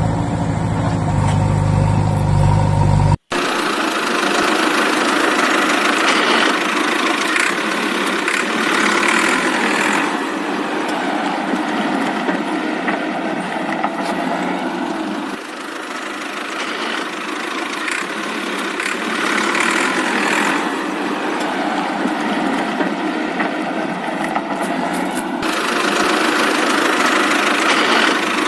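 Engine running steadily. About three seconds in it cuts abruptly to a thinner engine sound with no deep bass that swells and eases back every few seconds.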